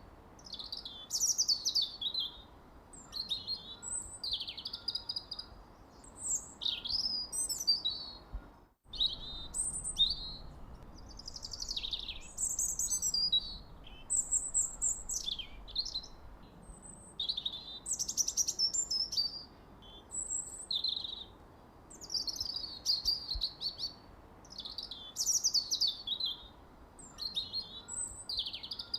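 Songbirds singing: a steady run of quick, varied, high-pitched chirps and trills from several phrases overlapping, with a momentary break about nine seconds in.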